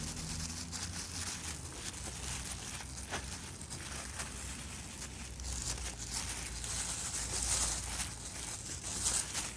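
A cloth rubbing over a plastic headlight lens, wiping off aluminium polish after its second application: an irregular scratchy swishing of repeated strokes, louder in the second half.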